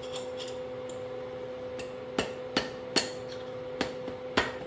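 Hammer blows on a seal driver, driving a rack housing seal down into a Toyota Hilux Surf power steering rack: sharp metallic taps, about five clear ones in the second half, the loudest about three seconds in. A steady low hum runs underneath.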